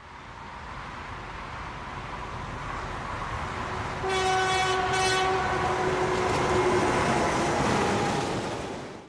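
A train approaching, its rumble growing louder, with the locomotive's horn sounding about four seconds in and held for a few seconds.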